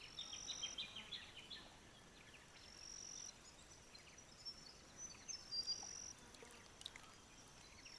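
Faint insect buzzing, a high steady drone that comes and goes in stretches of under a second, with a few short faint chirps early on.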